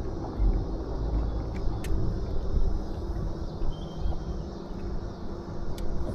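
Uneven low rumble of wind buffeting the microphone on an open fishing boat, swelling and easing, with a faint steady hum and a few light clicks.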